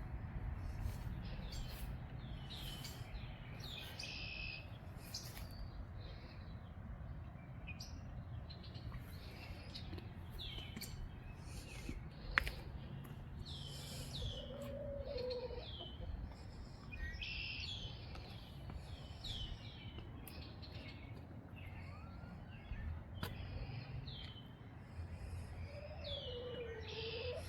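Backyard songbirds chirping repeatedly in short, high, down-slurred notes over a low rumble of wind, with a lower warbling call twice and a single sharp click about twelve seconds in.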